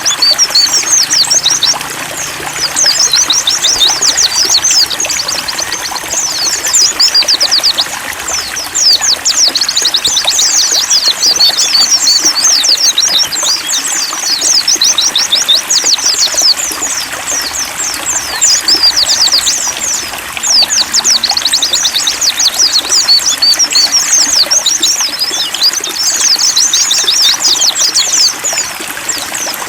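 Pleci (white-eyes) singing without pause in fast, high twittering phrases, over a steady trickle of running water.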